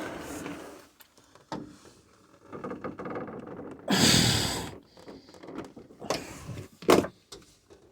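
Rear door of a T1N Sprinter van being worked by hand, giving irregular creaks and rattles in bursts, with a louder clunk about four seconds in and a sharp knock near seven seconds. The door is being tested for a squeak after a fastener in it was tightened.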